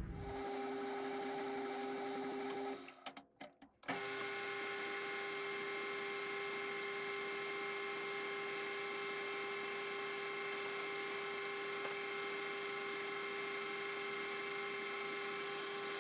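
Metal lathe running with a steady motor and gearbox hum. It cuts out briefly about three seconds in, then carries on as before.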